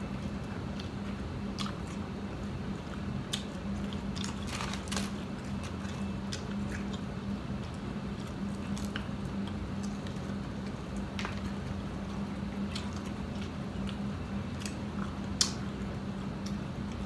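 Biting and chewing of fried chicken, with scattered wet mouth clicks and small crunches at irregular moments, over a steady low hum.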